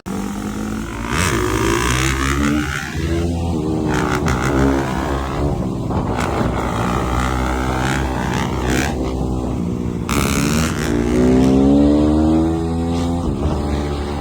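Motorcycle engine revving hard, its pitch climbing and dropping again and again under throttle and shifts. Two short rushes of hissing noise come in, one near the start and one about ten seconds in.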